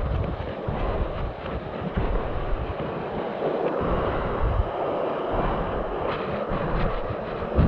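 Steady rushing water of a waterfall, with uneven gusts of wind buffeting the microphone.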